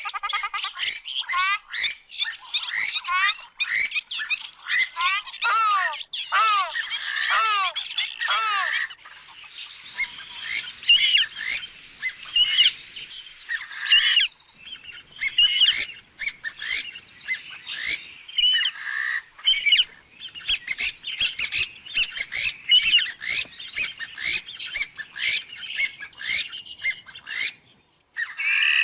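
Purple swamphen calling: a rapid, dense run of calls whose notes slide down in pitch, joined after about nine seconds by higher, thin whistles that also slide downward.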